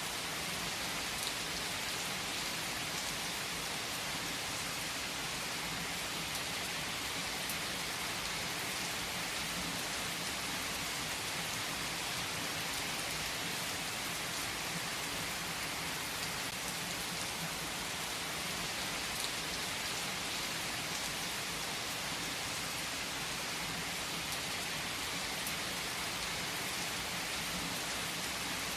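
Steady rain falling on a surface: an even, constant hiss with a few faint single drops standing out now and then.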